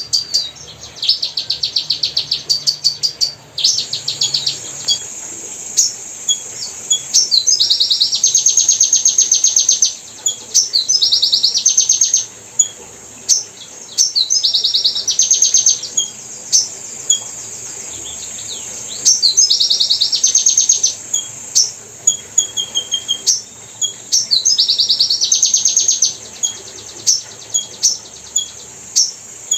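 Hummingbird calling: bursts of rapid, high-pitched chittering trills, each a second or two long, repeated every few seconds with scattered single high chips between them.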